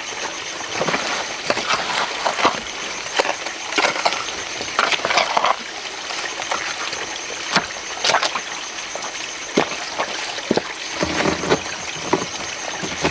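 Running water with irregular sharp clinks and scrapes of a hand tool digging into wet sand and stones.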